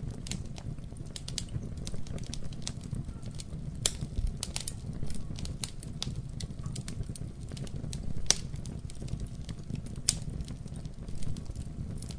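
Wood fire in a fireplace crackling, with irregular sharp pops over a steady low rumble of the flames; the loudest pops come about four, eight and ten seconds in.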